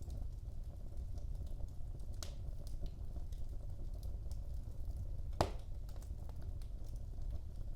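Wood fire burning in a fireplace: a steady low rumble of the flames with scattered crackles and pops, one sharper pop about five and a half seconds in.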